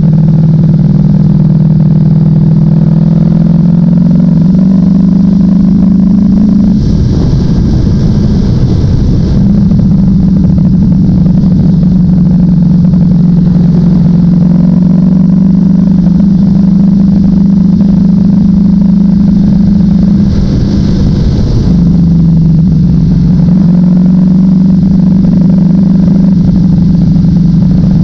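Ducati Panigale V4 motorcycle's V4 engine running at low, fairly steady revs while riding at town speed. Its pitch steps up and down a few times, and the steady note breaks up briefly twice, about seven and twenty-one seconds in.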